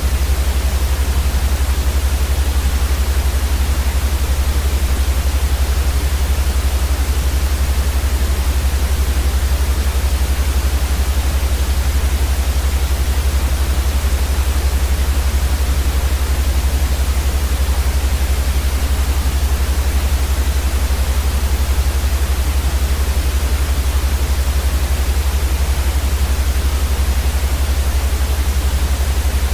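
Steady white noise for sleep: an even, unchanging hiss across the whole range, with a strong low rumble beneath it.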